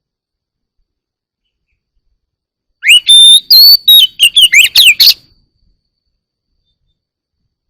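Oriental magpie-robin singing one loud phrase of about two seconds, starting around three seconds in: a rising whistle, a couple of held clear notes, then a quick run of varied sliding notes.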